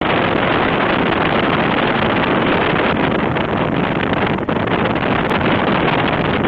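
Steady rush of wind noise on the microphone of a camera riding on a moving motorcycle, with the motorcycle's running mixed in beneath it.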